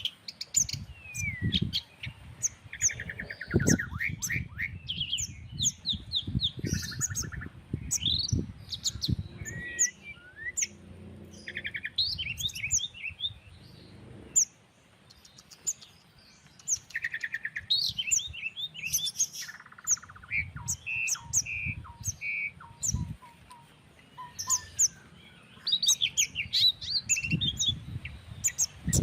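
Several small songbirds chirping and calling over one another: quick high chirps, short buzzy trills, and a run of clear repeated whistled notes about twenty seconds in. Underneath is an irregular low rumble of country breeze.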